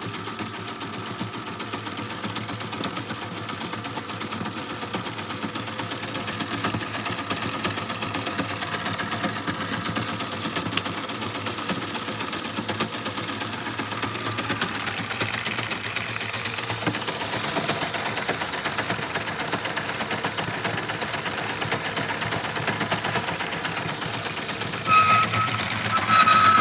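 Battery-powered Lego model of an open-crank hit-and-miss engine running, its plastic bricks and mechanism clattering in a fast, even rattle. Near the end a short high whine rises over the clatter.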